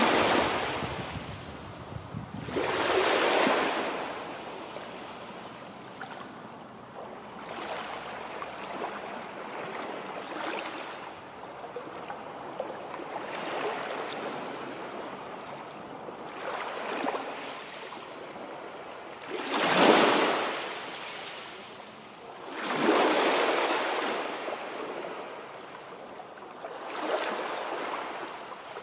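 Sea waves breaking and washing on the shore, a steady hiss that swells and ebbs with each wave. The loudest break comes about two-thirds of the way through, followed by another a few seconds later.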